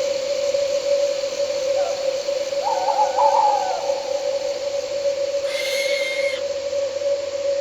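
An owl hooting a few short calls over a steady drone of night insects, with crickets chirping high above it. A short hiss comes about six seconds in.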